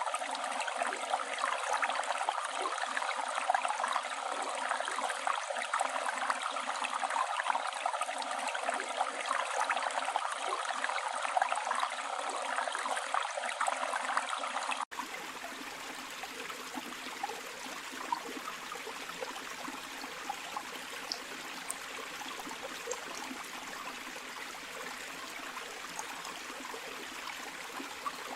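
Flowing river water, a steady rushing. About halfway through it cuts abruptly to a quieter, softer stretch of running water with a few faint ticks.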